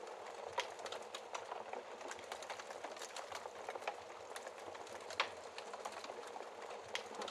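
Wood fire burning in a fireplace: a steady low hiss of flames with frequent irregular crackles and small pops, one louder pop about five seconds in.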